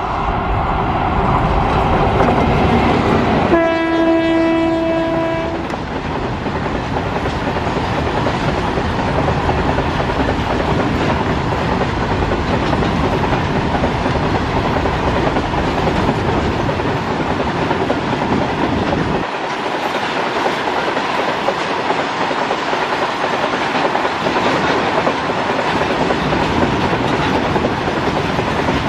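Twin WAG-5 electric locomotives approaching and passing at speed, sounding their air horn once: one steady note held for about two seconds, about three and a half seconds in. Then a long rake of BOXNHL open wagons rolling past with steady wheel and rail noise.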